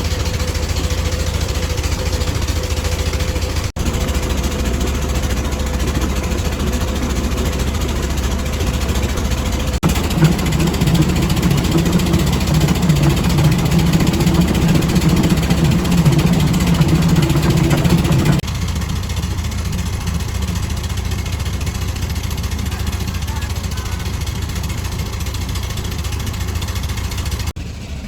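Heavy machinery running steadily with an engine-like hum and noise. About ten seconds in a louder, deeper drone joins it. It cuts back abruptly near eighteen seconds, and the sound changes suddenly several times.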